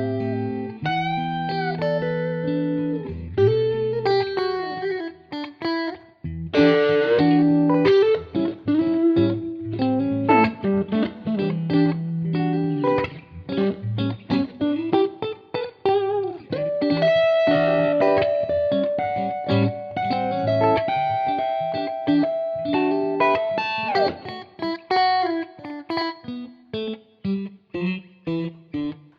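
Fender Stratocaster electric guitar jammed on in a loose, improvised way, mixing chords and single-note lines with string bends. A long held note in the second half slides down, and the playing breaks into short picked notes near the end.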